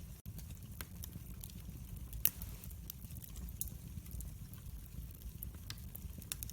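Wood fire in a fireplace crackling: scattered sharp snaps over a low, steady rumble of the flames, with one louder pop a little over two seconds in.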